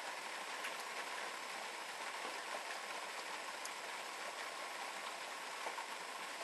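Steady rain falling from a passing thunderstorm: an even hiss with scattered faint drop ticks.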